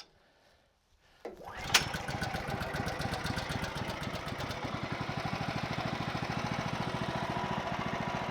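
The sawmill's 14 HP Kohler engine starts about a second in, with a sharp bang as it catches, then settles into a steady, evenly pulsing run.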